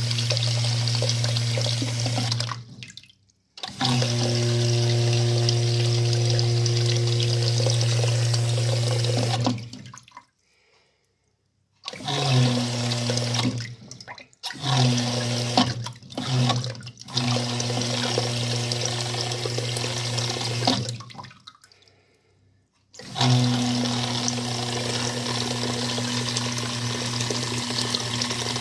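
Water rushing through household plumbing, a steady hiss over a strong low hum, shutting off and starting again several times.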